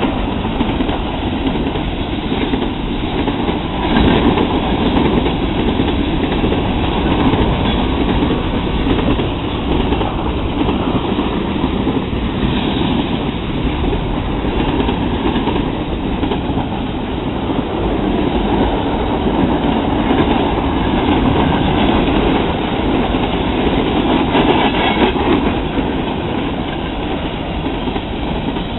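Freight train rolling past: a steady, loud rumble of cars and wheels on the rails, with wheels clicking over rail joints now and then.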